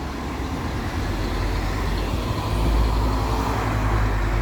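Bus engine running with a low rumble that grows louder about halfway through, amid road traffic.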